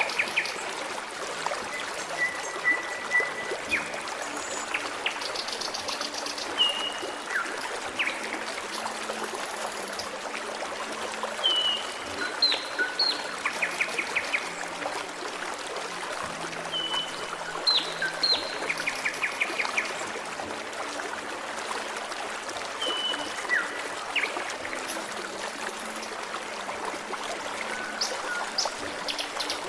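A forest stream trickling and babbling steadily, with small birds calling over it every few seconds in short chirps, brief falling notes and quick trills.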